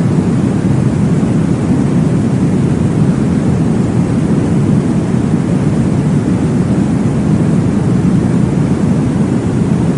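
Steady, deep whooshing noise from a womb-sound recording that imitates blood flow in the uterus. It runs evenly, with no breaks or rhythm.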